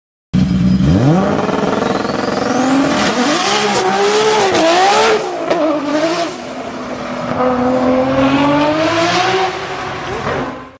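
Car engine revving up and held at high revs with the pitch wavering, dropping back about seven seconds in and climbing again, then fading and cutting off at the end. A high thin whine sweeps upward about two seconds in.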